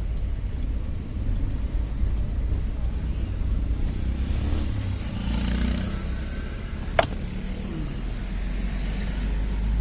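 Steady low rumble of city road traffic, with a vehicle passing about five seconds in and a single sharp click about seven seconds in.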